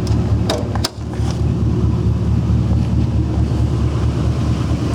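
2004 GMC Sierra 1500 pickup's rebuilt GM engine idling steadily, with a couple of sharp clicks about half a second to a second in.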